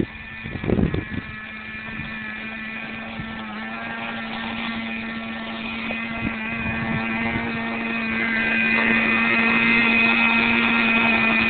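Small nitro (glow-fuel) engine of an RC monster truck running at a steady pitch, growing louder about eight seconds in, with a few knocks in the first second.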